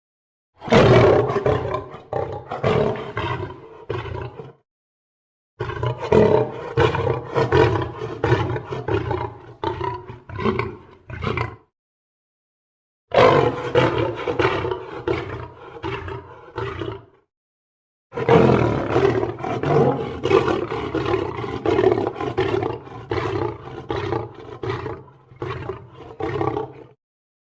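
Lion roar and snarling growl sound effects, mixed. Four separate takes of rough, pulsing growling, each a few seconds long, with a clean silent gap between them.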